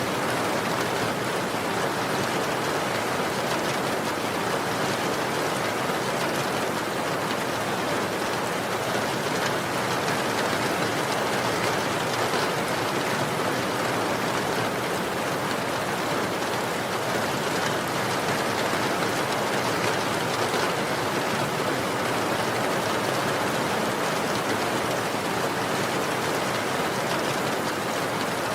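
Steady rain falling, an even hiss of drops with no distinct individual impacts.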